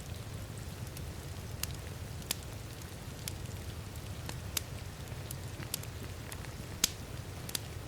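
Crackling wood fire with sharp, irregular pops, about one or two a second, the loudest near the end, over a steady low rumble and the even hiss of heavy rain.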